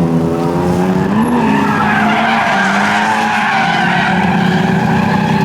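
Drift car's engine revving, its pitch dipping and rising, then held high as the tyres skid and squeal through a slide from about a second and a half in.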